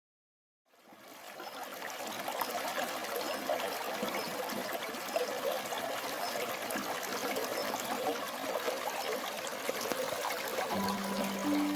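Stream water trickling steadily, fading in about a second in after a moment of silence. Music notes start near the end.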